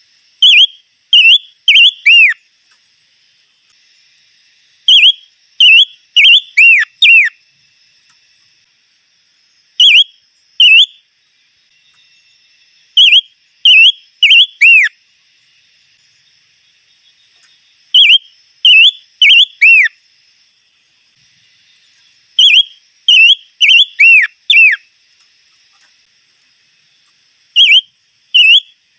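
A songbird, the chim ngũ sắc (five-coloured bird), singing loud phrases of three to five clear whistled notes, about one phrase every four to five seconds, the last note of most phrases swooping down in pitch.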